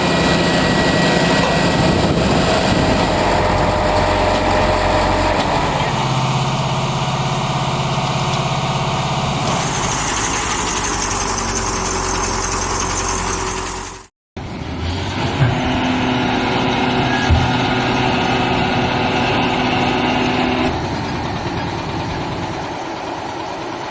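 Heavy truck diesel engines running through a series of edited clips, the sound changing abruptly at each cut, with a brief total dropout about 14 seconds in.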